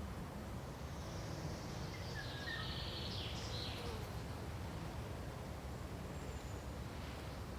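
Steady low rumble of forest ambience, like wind through trees, with a short cluster of high bird chirps and thin whistled notes about a second or two in.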